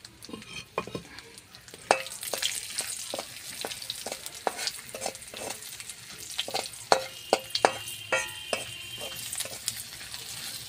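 Halved peanuts sizzling as they fry in mustard oil in a wok, while a spatula stirs and scrapes them, knocking many times against the pan with brief metallic ringing. The sizzle comes up about two seconds in.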